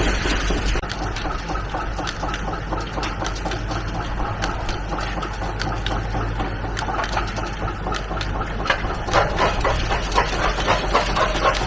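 Vintage rock crusher at work, stone cracking and clattering in quick irregular knocks that grow louder and denser over the last few seconds, over the steady running of a 1949 Oliver six-cylinder tractor engine.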